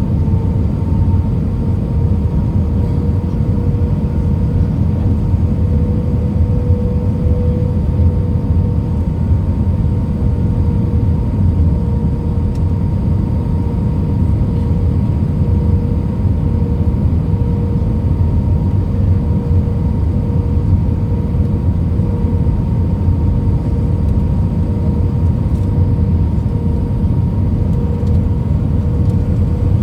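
Airliner cabin noise on approach: the steady rumble of the jet engines and the airflow, with a steady droning whine held on one pitch.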